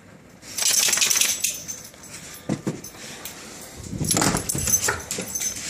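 Dogs moving about after coming in from the snow, with a loud rustling burst about half a second in and another around four seconds in.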